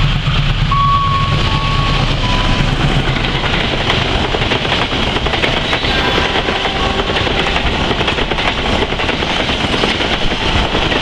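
A passenger train passing close by: a low diesel locomotive hum fades in the first couple of seconds, then the steady rush and clatter of carriage wheels on the rails carries on. A few short high-pitched tones come near the start.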